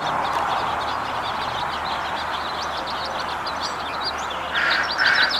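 Small birds chirping in quick high notes over fading traffic noise, then a run of short repeated bird calls, about two or three a second, starting about four and a half seconds in.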